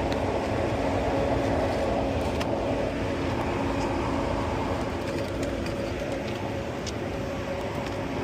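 Rooftop HVAC unit running with its filter access panel open: a steady whooshing hum of the blower drawing air through the filter section, with a constant low tone and a few faint light clicks.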